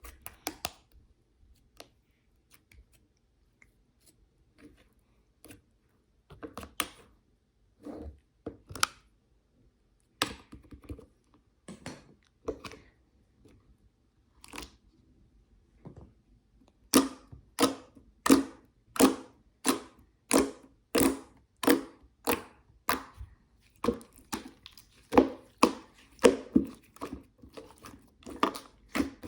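Crunchy chewing: scattered crunches at first, then steady rhythmic crunching bites about twice a second from a little past halfway.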